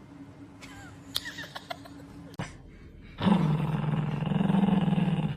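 An animal growls loudly and without a break for about two seconds, starting a little past halfway.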